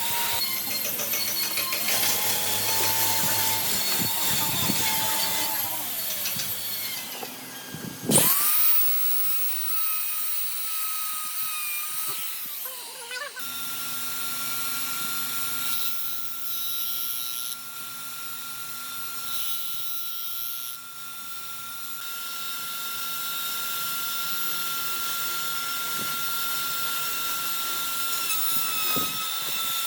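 Handheld electric power tool running with a steady high motor whine. It is switched off and on again a few times: it spins up with a rising whine about eight seconds in and winds down and restarts around thirteen seconds.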